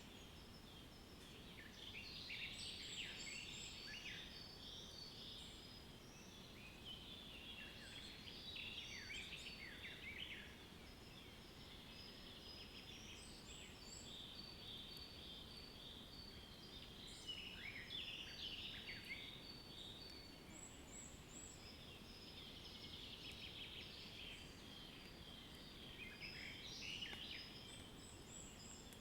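Faint chorus of small birds chirping and trilling in overlapping bursts that come and go every several seconds, over a low, steady background hiss.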